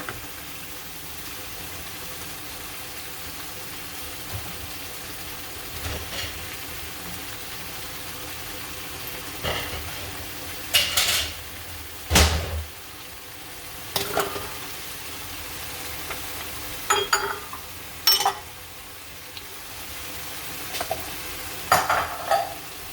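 Tomato-sauce chicken stew with yams simmering in a pan with a steady hiss. A utensil stirs and knocks against the pan several times in the second half, the heaviest knock with a thud about halfway.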